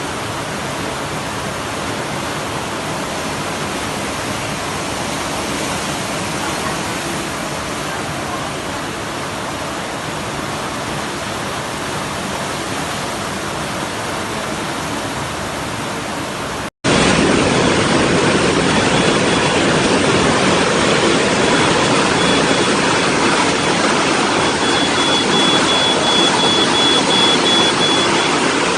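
Steady rush of floodwater. About seventeen seconds in it cuts abruptly to a louder stretch of the same rushing noise, with a faint thin high tone running through its second half.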